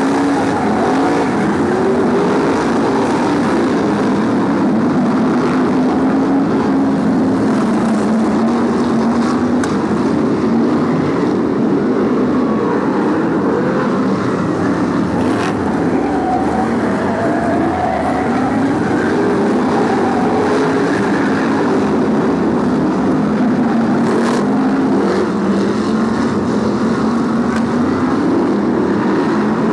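A pack of BRISCA F1 stock cars racing, their V8 engines revving up and easing off in waves as they lap the oval and pass by.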